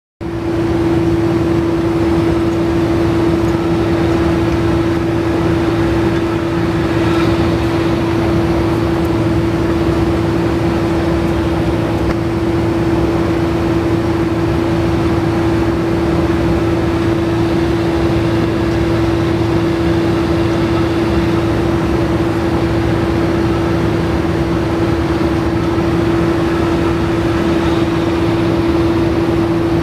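Salvaged 2011 Honda PCX 125 rear rim being spun for a trueness test, with a steady mechanical running noise and one constant hum that does not change in pitch.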